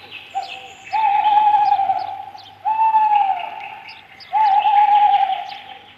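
An owl hooting: a series of long, steady hoots of about a second each, some with a short hoot just before, with faint chirps of small birds behind.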